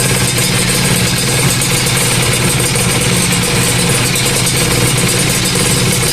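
Kawasaki Ninja RR's 150 cc two-stroke single-cylinder engine idling steadily with a noisy, metallic rattle, which the mechanic puts down to too much piston-to-cylinder clearance.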